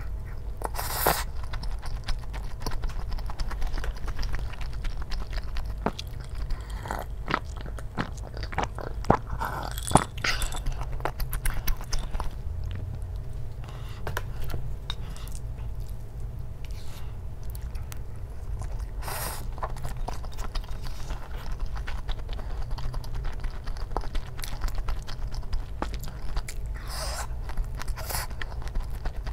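Close-miked chewing and biting of spicy tteokbokki rice cakes, with scattered sharp clicks.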